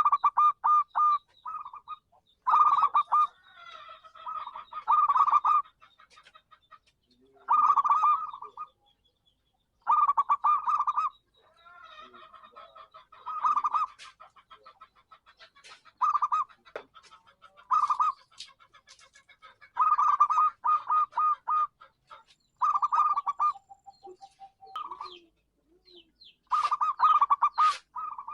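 Zebra dove (perkutut) cooing: quick runs of staccato coo notes, each phrase about a second long, repeated about ten times with short gaps. Fainter bird chirps come between the phrases.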